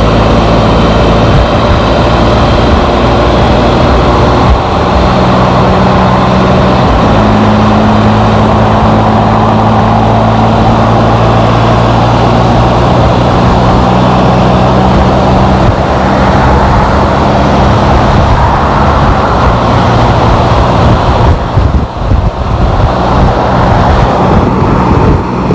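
Can-Am Spyder three-wheeled motorcycle running at road speed onto a dual carriageway, its engine note stepping up in pitch a few seconds in and dropping back down past the middle, under a steady rush of wind and road noise.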